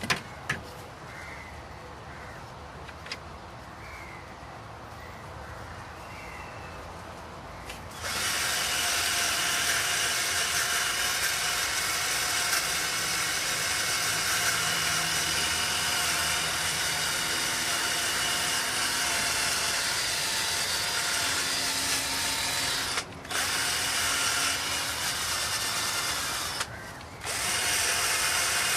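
A handheld power drill starts about a third of the way in and runs steadily, scouring carbon off an engine's cylinder head or block. It pauses briefly twice near the end.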